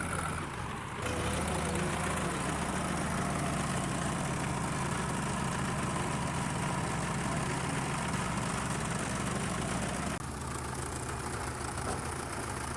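Heavy diesel engine running steadily, louder from about a second in and a little quieter after about ten seconds.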